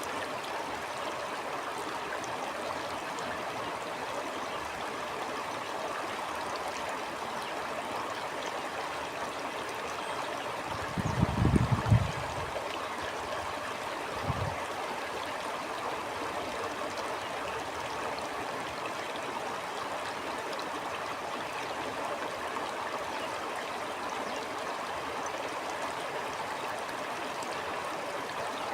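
Stream water flowing and gurgling steadily. A brief low rumble, the loudest moment, comes about eleven seconds in, with a shorter one a few seconds later.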